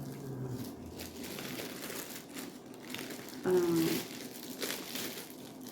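Plastic packaging crinkling and rustling in irregular bursts as shower head kit parts are handled and unwrapped. A short vocal sound comes about halfway through.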